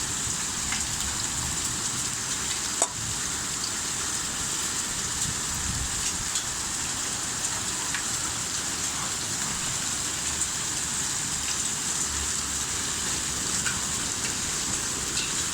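Hail and heavy rain falling: a steady hiss with scattered sharp ticks of hailstones striking, and one louder knock about three seconds in.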